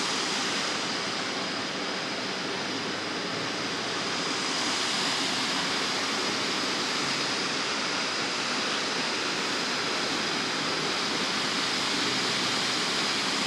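Waterfall: a steady rush of falling water that holds an even level throughout.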